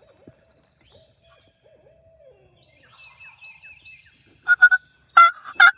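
Faint owl hooting, low notes that drop off at their ends, then from about four and a half seconds a loud, rapid series of turkey yelps, about three a second.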